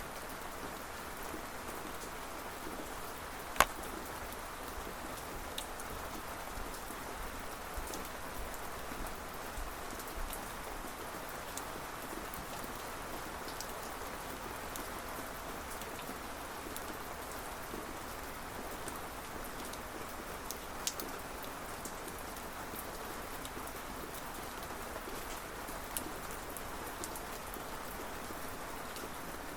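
Steady rain falling with an even hiss, with scattered sharp single drips striking nearby, one of them noticeably louder about three and a half seconds in.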